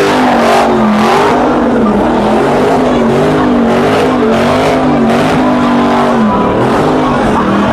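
Car engine revving hard over and over, its pitch rising and falling about once a second, over a steady loud hiss that may be tyres spinning.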